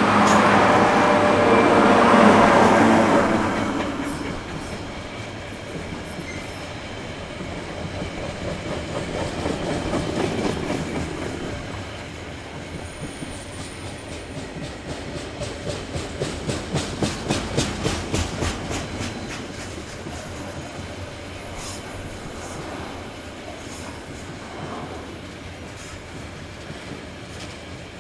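A train passing: loud at first, then its wheels clacking in a quick even rhythm over the rail joints, then a thin high wheel squeal from about twenty seconds in.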